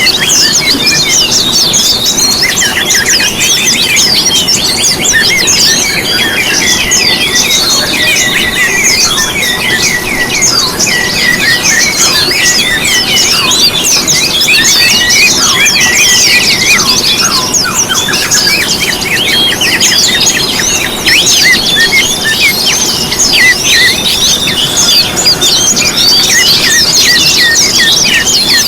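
A dense chorus of many small songbirds chirping and twittering at once, a constant overlapping stream of quick, high, mostly downward-sweeping notes.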